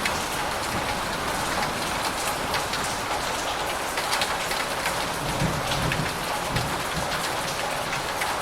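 Steady rain falling on a surface, a dense even hiss dotted with many individual drop ticks.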